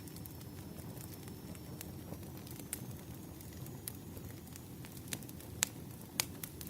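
Campfire burning, a low steady rumble of flames with scattered sharp crackles and pops of burning wood, two louder pops near the end.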